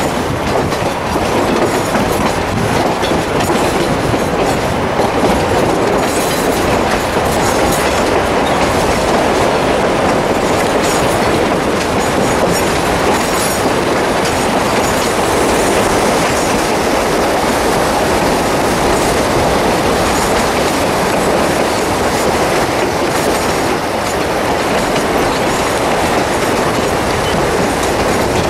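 Narrow-gauge passenger train rolling steadily along the track, heard from aboard: a continuous rumble with wheel clatter over the rail joints.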